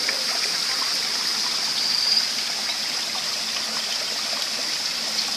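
A forest stream running steadily over rocks.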